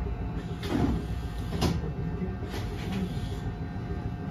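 Inside an Eizan Electric Railway train near the driver's cab: a steady low rumble with a thin hum, and three short hisses or knocks about a second apart in the first half.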